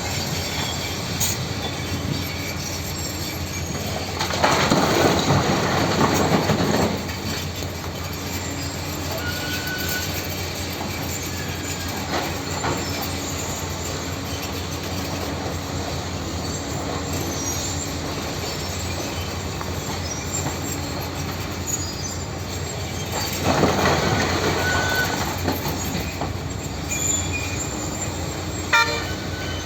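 Heavy tracked machine working rock, running steadily with metallic squealing and clatter, and two louder stretches of scraping noise, about four seconds in and again about twenty-three seconds in.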